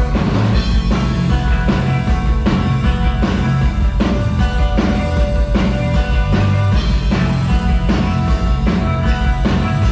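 Live rock band playing an instrumental passage: a drum kit keeping a steady beat of about two hits a second under sustained guitar and bass.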